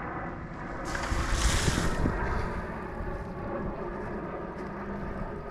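A splash of water thrown over a freshly sawn pecan log face, a loud hiss starting about a second in and lasting about a second. Under it, the steady hum of the sawmill's engine running.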